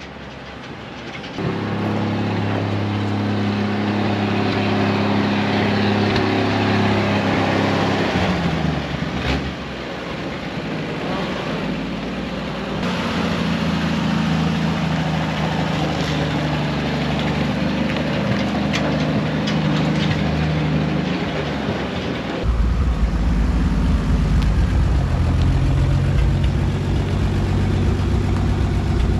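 A 1961 Chevrolet C-10's original 235 inline six-cylinder engine running, its pitch rising and falling with engine speed. The sound changes abruptly a few times, about a second and a half in, near the middle and about three quarters of the way through.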